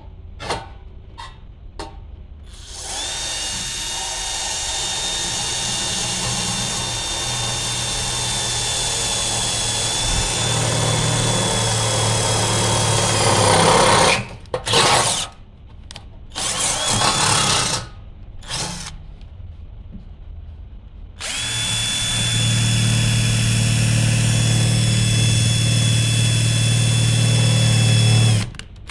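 Total 12 V cordless lithium-ion impact drill running in a live drilling test. It gives a few quick trigger blips, then a long steady whine of about eleven seconds, several short bursts, and another long run of about seven seconds that stops just before the end.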